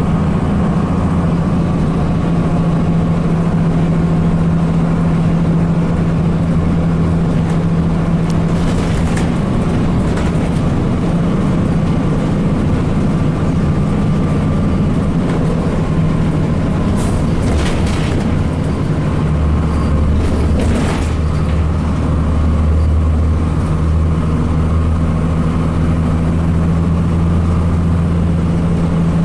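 Cummins ISC inline-six diesel of a 2002 Blue Bird CS transit bus running under way, its low drone shifting in pitch a couple of times. A few brief noisy bursts break in around the middle.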